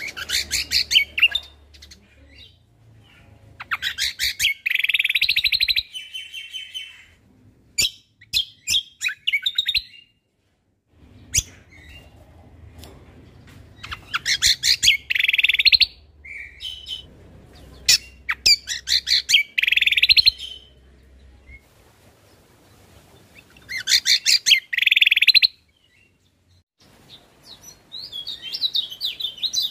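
Cucak kombo (kecial kombok) songbird singing in repeated bursts of rapid chattering and trilling notes, each phrase a second or two long with short pauses between. These are the fast fill-in phrases used as a training recording for competition birds.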